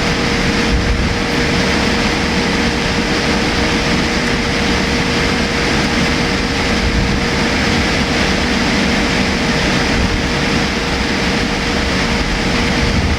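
Steady cabin noise inside a Boeing 787-8 airliner: an even roar with a steady hum running under it.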